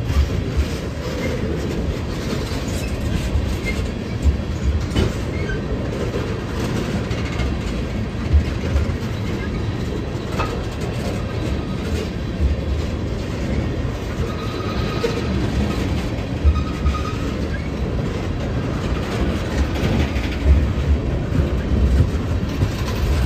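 A train rolling past on the rails with a steady rumble and irregular clacks from the wheels. Twice, about fifteen and sixteen and a half seconds in, a faint high squeal from the wheels.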